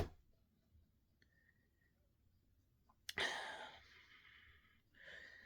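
Near silence with a click at the start and, about three seconds in, one short noisy burst of breath from a person, sharp at the onset and fading within about half a second.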